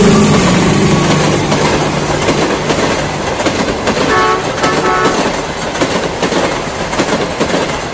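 Pakistan Railways diesel-hauled passenger train passing close by. The locomotive's diesel engine is loud at first and fades after about three seconds as the coaches follow, their wheels clacking over the rail joints. Two short pitched tones come near the middle.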